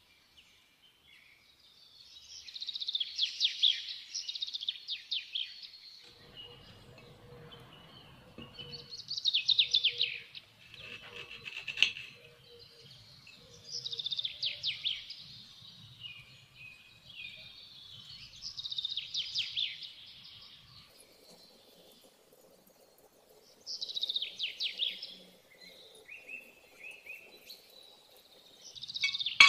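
Birds singing: short, high, rapidly trilled phrases of a second or two, repeating every four to five seconds.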